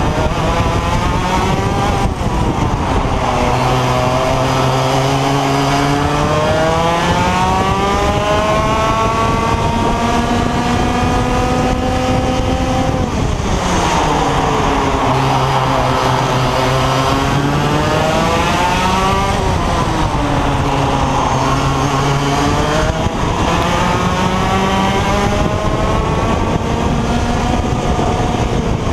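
IAME X30 125cc two-stroke kart engine revving out, its pitch climbing steadily for several seconds, then dropping sharply as the throttle comes off. This happens about a second in, near the middle, and again later on.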